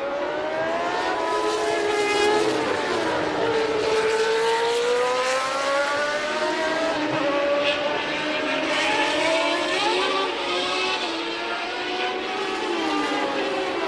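Several 1989 Formula One cars with 3.5-litre naturally aspirated engines running at racing speed. Their engine notes rise and fall in pitch through gear changes as they pass, over a steady hiss.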